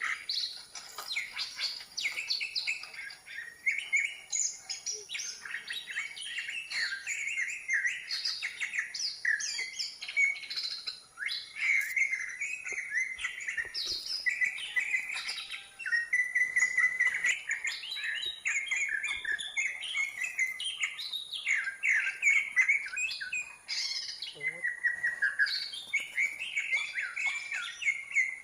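Birdsong: a fast, unbroken run of varied chirps, trills and whistles with no pauses, over a faint steady high-pitched whine.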